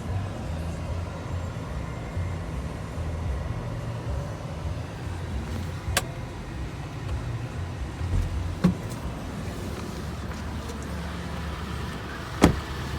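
Steady low rumble of an idling vehicle engine, with three sharp clicks spread through it, the last near the end.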